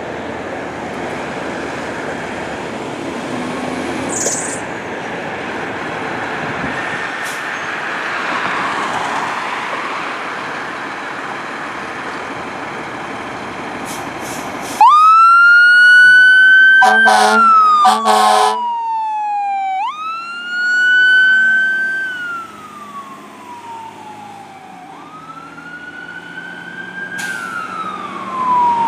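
Steady road noise, then about halfway an emergency vehicle's siren starts wailing, each cycle rising and then falling over about five seconds. Two short horn blasts sound soon after the siren starts, and the siren grows quieter a few seconds later as the vehicle moves off.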